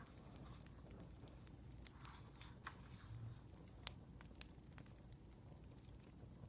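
Faint crackling of a burning wood fire: a low steady hum with sparse, irregular sharp pops and snaps, the sharpest a little before four seconds in.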